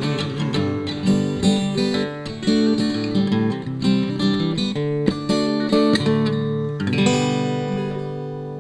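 Acoustic guitar playing the closing bars of a song, picked notes and strummed chords, ending on a final chord about seven seconds in that rings and slowly fades.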